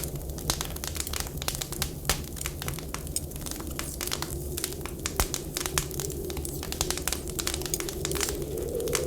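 Wood fire crackling with many sharp pops and snaps, over a steady low rumble and a faint whistling wind whose tone swells near the end.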